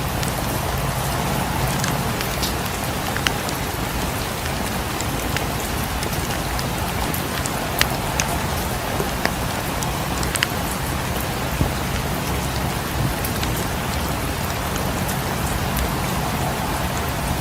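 Steady rain, with a few sharp crackles from a wood fire scattered through it.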